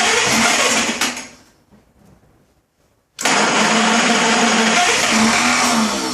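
1933 Chevrolet straight-six being cranked on its starter motor without firing: a steady whirring crank that stops about a second in, then after a short pause a second burst of cranking starts abruptly and runs on before fading near the end. The engine does not catch, which is taken to mean it is very flooded.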